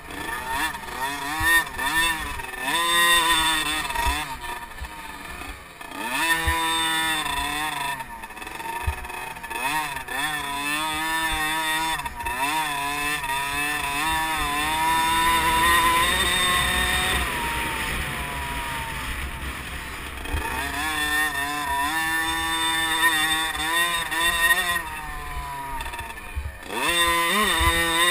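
50cc liquid-cooled two-stroke motocross bikes racing, their engines revving up and down again and again as the throttle is opened and shut. For several seconds in the middle, several engines sound together.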